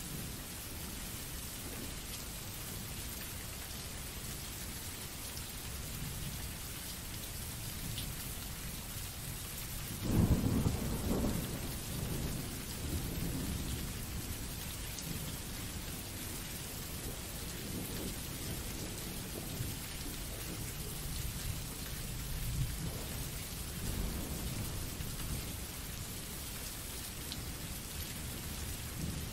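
Recorded rain sound effect: steady rainfall, with a loud rumble of thunder breaking in about ten seconds in and fading over a few seconds, followed by quieter rolls of thunder.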